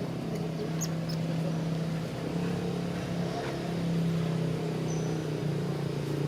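A motor running steadily with a low, even hum, its pitch shifting slightly about five seconds in.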